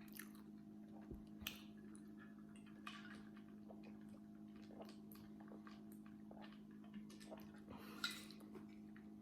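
Faint eating sounds: scattered soft clicks and smacks of chewing a burger and fries, over a steady low electrical hum. A slightly louder click comes about a second and a half in, and another about eight seconds in.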